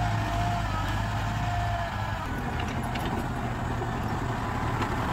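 Kubota M6040 SU tractor's diesel engine running steadily under work, with a slight change in its note about two seconds in.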